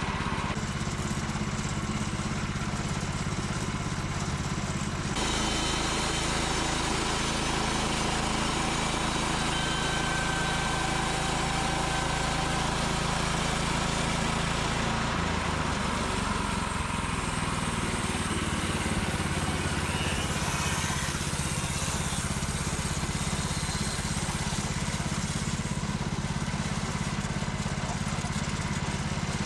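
Chainsaw mill's gas chainsaw engine running steadily under load as it rips a long log lengthwise into a beam. The tone changes abruptly about five seconds in and again about halfway through.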